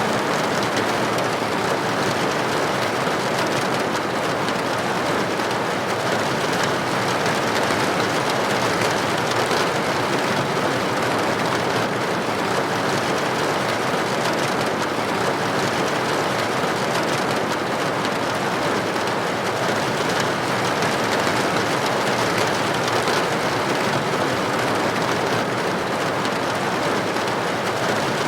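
Steady rain, with raindrops pattering against a building's window in an even hiss.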